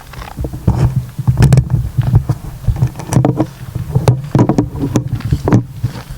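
Footsteps along a woodland path, an irregular series of short knocks roughly two a second, over a loud low rumble of wind and handling on the microphone.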